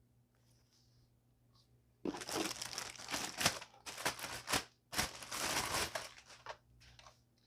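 Plastic packaging being crinkled and pulled open by hand as vacuum parts are unwrapped from the box. It starts about two seconds in and goes on for several seconds, with a short break in the middle.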